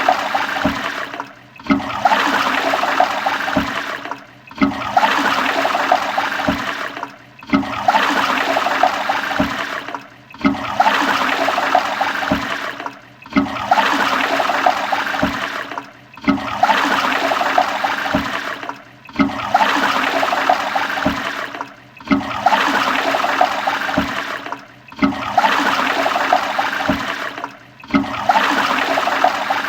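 Toilet flushing: a rush of water with gurgling, the same short flush repeated about every three seconds, each cut off abruptly before the next starts.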